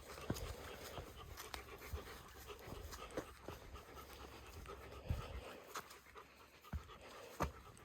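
A hiker breathing hard while walking a steep trail, with irregular footsteps.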